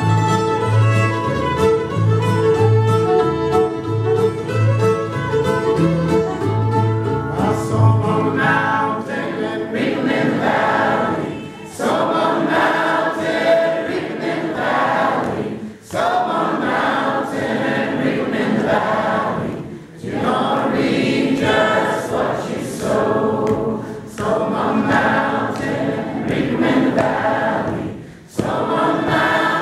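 Old-time string band of fiddle, mandolin, guitar and upright bass finishing an instrumental passage. The bass and fiddle drop out about eight seconds in, and several voices sing in close harmony, largely unaccompanied, in phrases with short breaths between them.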